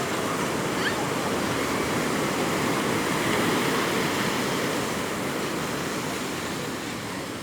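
Sea waves rushing onto the shore, a steady wash that swells about halfway through and eases off toward the end.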